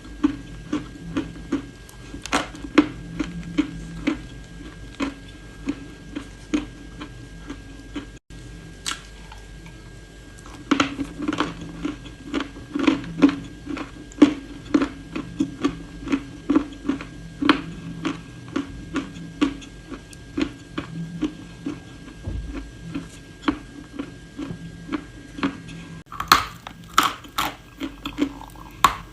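Chewing and crunching of hard, dry clay close to the microphone, a steady run of sharp crackling crunches a few times a second. Louder, sharper bites come near the end.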